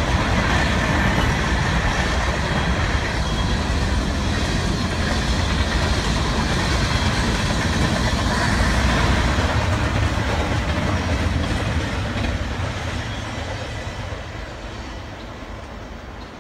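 Freight cars, tank cars and then double-stack container cars, rolling past with steel wheels running on the rails: a steady, loud low rumble and rattle that fades away over the last few seconds.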